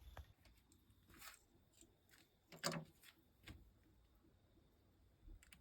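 Near silence, broken by a few faint short knocks and clicks; the clearest comes a little under halfway through.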